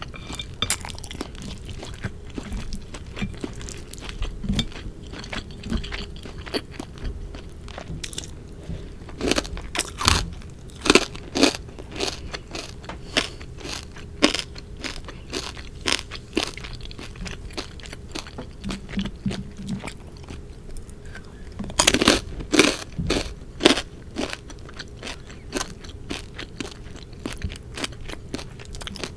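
Close-miked chewing and crunching of a person eating sukiyaki, a steady run of small mouth clicks with clusters of louder crunchy bites about ten seconds in and again a little past twenty seconds.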